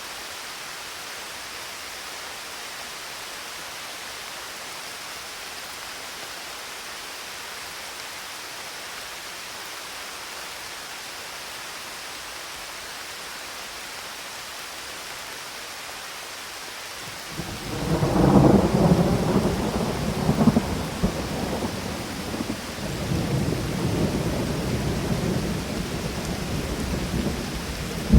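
Steady hiss of rain, then about two-thirds of the way in a loud peal of thunder breaks in and keeps rumbling, swelling and easing in waves.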